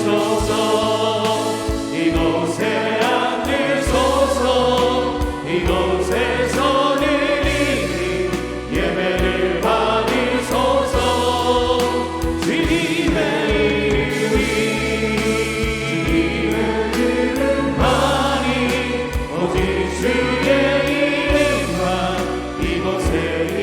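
Church praise team singing a worship song in chorus, with a band keeping a steady beat under a held bass line.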